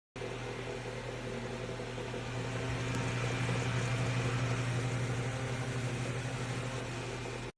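Holmes Blizzard 7-inch table fan running steadily: a low electric motor hum under a rush of air, swelling slightly and easing off again.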